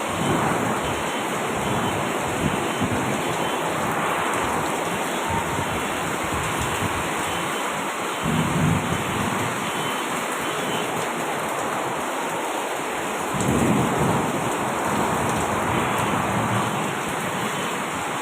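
Heavy rain pouring down steadily, with a low rumble swelling up briefly twice, about eight seconds in and again near fourteen seconds.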